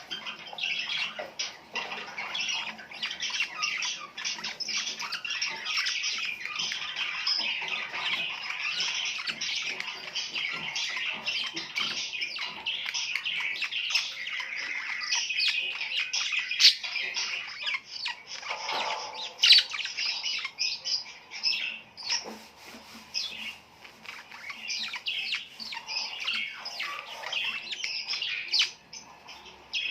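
A flock of small birds chirping and squawking all at once, a dense, unbroken chatter of short, high calls.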